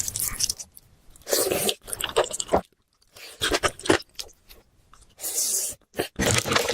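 Close-miked eating sounds: chewing and crunching in a series of short bursts, broken by abrupt gaps.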